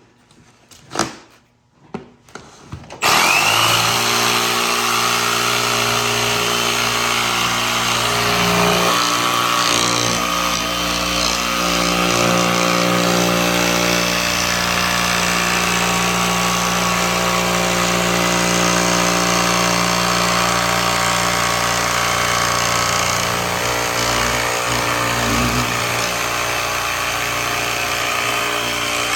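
An electric power tool starts about three seconds in and runs steadily under load.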